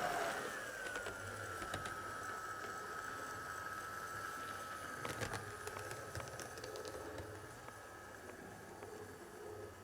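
HO scale model locomotive running on track, its small electric motor giving a steady high whine that drops slightly in pitch in the first second and then holds. A few sharp clicks about five seconds in, and the sound fades toward the end.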